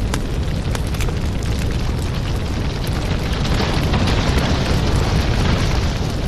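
Firewood burning, with a steady low rushing of the flames and frequent irregular sharp crackles and pops from the logs.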